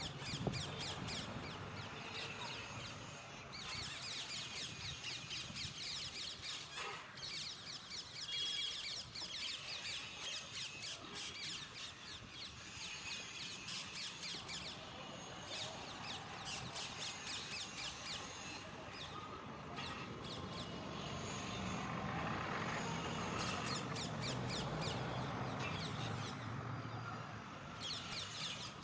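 Birds chirping and chattering in rapid high bursts of a few seconds each, over a low background rumble.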